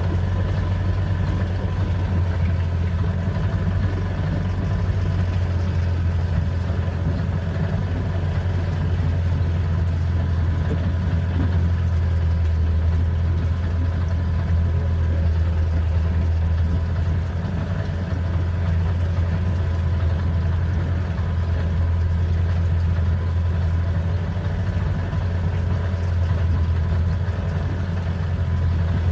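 Boat engine idling steadily: a constant low hum with a faint steady whine above it.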